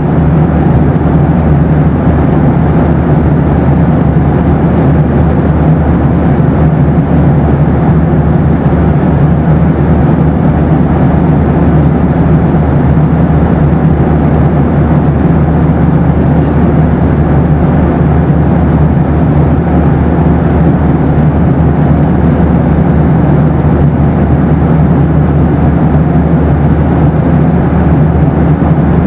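Boeing 737 cabin noise: the steady, unchanging rumble of the engines and airflow heard from inside the airliner in flight, with a low hum under a smooth roar.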